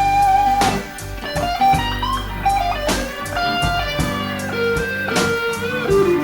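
Electric blues guitar playing a solo of held, bent notes over bass and a drum beat, with no singing.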